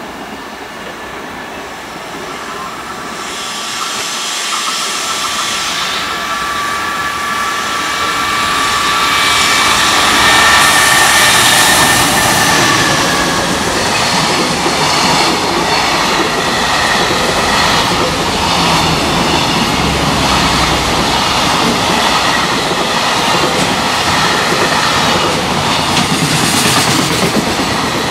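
JR Freight EF210 electric locomotive approaching with a steady whine and passing close by, loudest about ten seconds in. A long container freight train follows, rumbling past steadily with wheel clatter over the rail joints.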